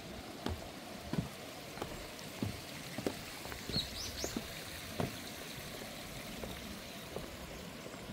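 Footsteps walking at an even pace, a bit under two steps a second, stopping about five seconds in, over a steady rush of running water. A bird chirps three quick rising notes around four seconds in.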